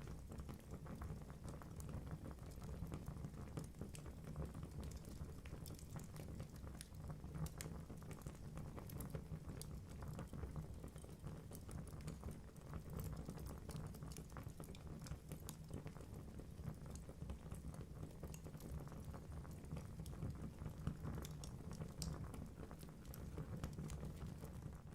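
Wood fire burning in a fireplace: a low steady rumble of flame with frequent small crackles and pops from the logs.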